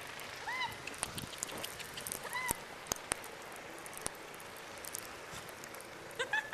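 A puggle dog giving about three short, high whines, each rising and falling in pitch, among faint scattered ticks.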